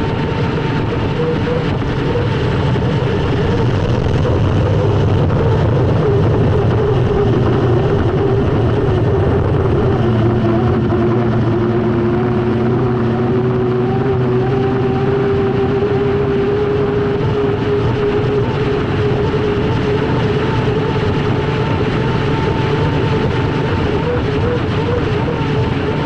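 Unlimited hydroplane's turbine engine running hard, heard onboard as a steady whine over a dense rush of wind and water. The whine's pitch sags slightly about ten seconds in and then climbs back.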